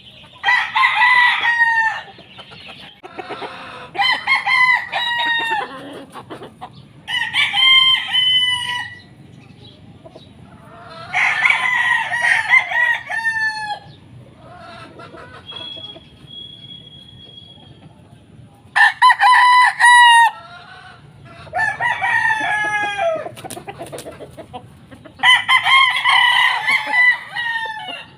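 Gamefowl roosters crowing, about seven crows one after another, each lasting a second or two.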